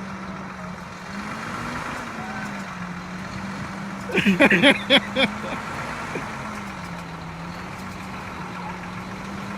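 A vehicle running with a steady, slightly wavering hum, and a brief burst of voices calling out about four seconds in.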